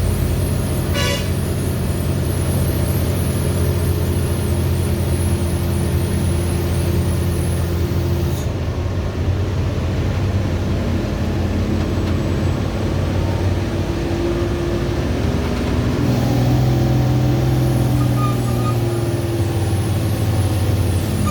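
Heavy diesel lorry engine running steadily under load, its pitch shifting about 16 seconds in as the revs change. A short horn toot sounds about a second in.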